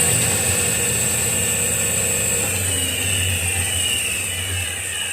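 Alternator test rig spinning a 12-volt Iveco alternator whose overrunning (freewheel) pulley is slipping: a steady mechanical whir with a high whine. From about halfway the whine falls in pitch and the sound slowly fades as the rig slows. With the pulley slipping the rotor is probably standing still, so the alternator only briefly starts to charge.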